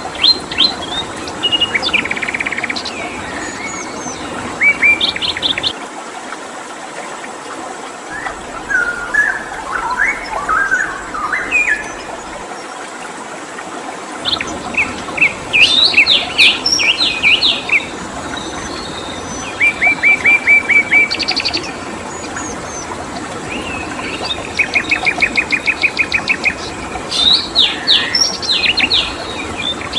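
Several songbirds chirping and trilling over a steady background hiss. The trills are fast runs of evenly repeated notes, clearest about two-thirds of the way in and near the end.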